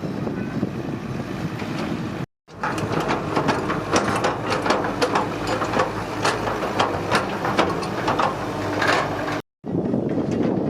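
Heavy excavator's diesel engine running, with a stretch of rapid metallic clanks and knocks in the middle. The sound drops out abruptly twice, about two seconds in and near the end.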